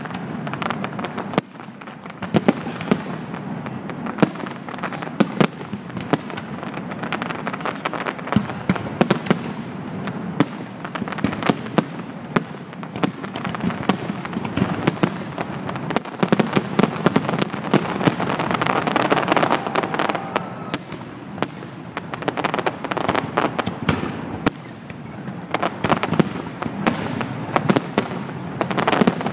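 Aerial fireworks display: shells bursting in a fast, unbroken series of bangs over a continuous crackle.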